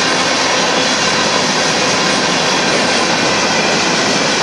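Union Pacific freight train's covered hopper cars rolling past: a steady, loud noise of steel wheels on rail.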